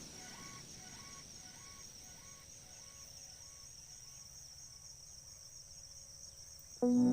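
Insects trilling, a steady high pulsing buzz, with a short pitched call repeating about twice a second that fades away in the first few seconds. Music comes in suddenly near the end.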